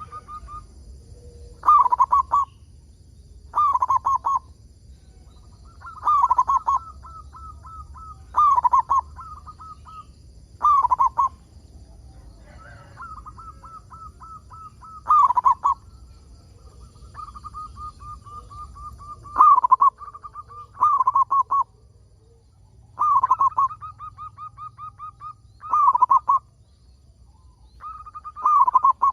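Zebra dove (perkutut) cooing: repeated phrases, each a run of quick short notes leading into a louder, falling coo, coming roughly every two to three seconds. Faint high chirps sound in the background.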